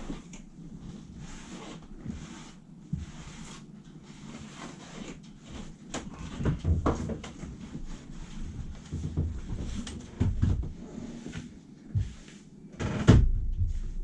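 Hands working over surfaces: repeated short rubbing and swishing sounds, broken by several knocks and thumps, the loudest about 13 seconds in.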